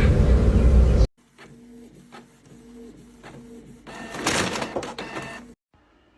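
A small machine running with a steady hum and regular clicks about every half second, growing louder and noisier near the end before cutting off. It is preceded by a loud, noisy stretch that stops abruptly about a second in.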